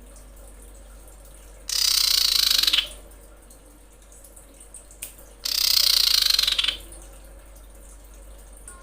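Common iora giving two harsh, hissing rasps, each about a second long and some three and a half seconds apart. This is the female's call used as a lure to draw in males.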